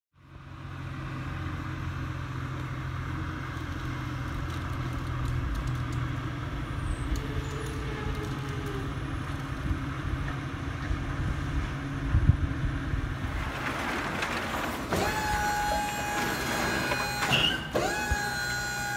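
A vehicle engine running with a steady low hum. From about two-thirds of the way in a hiss rises, and then a high steady whine sounds in several separate stretches toward the end.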